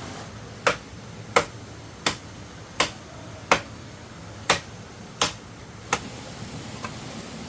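A run of eight sharp knocks, about one every 0.7 seconds, with a slightly longer gap after the fifth.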